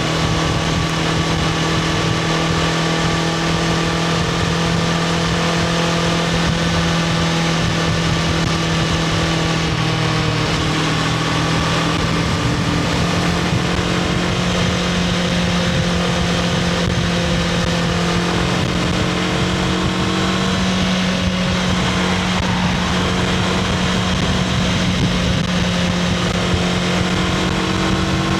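2024 Honda CBR500R's parallel-twin engine running through its stock exhaust at fairly steady revs. The pitch eases down a little around a third of the way in and climbs back in the second half.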